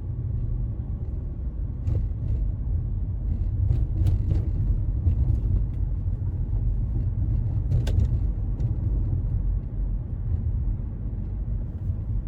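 Car interior while driving: a steady low rumble of engine and road noise, with a few faint knocks.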